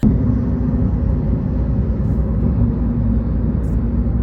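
Steady, loud low rumble of a moving vehicle heard from inside, with a faint steady hum running through it.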